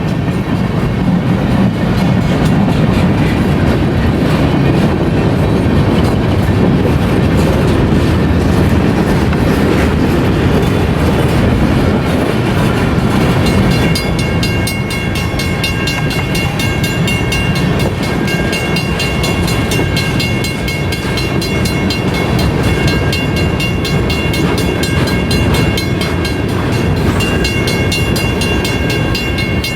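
A BNSF freight train's cars rolling steadily past a grade crossing with a continuous low rumble and wheel clatter. From about halfway, the crossing's mechanical bell ringing rapidly stands out above the train.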